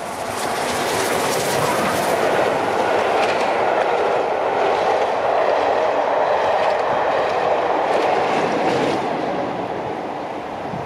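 Passenger train coaches passing over a level crossing at speed: a steady rumble of wheels on the rails with rapid clicking. It swells about half a second in and eases off near the end.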